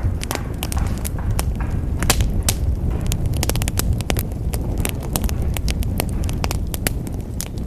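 Wood fire in a fireplace crackling, with frequent sharp irregular pops over a steady low rumble of the burning.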